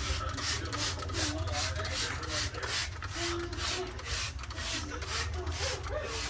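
Rhythmic back-and-forth scrubbing by hand, about two to three strokes a second, during fridge cleaning, over a steady low hum.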